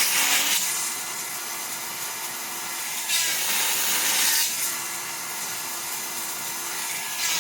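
Granberg 12-volt chainsaw chain sharpener's small electric motor running steadily. It grinds a cutter tooth of the saw chain in a harsh, hissy burst that ends about half a second in, grinds another for about a second and a half around three seconds in, and starts on the next tooth at the end.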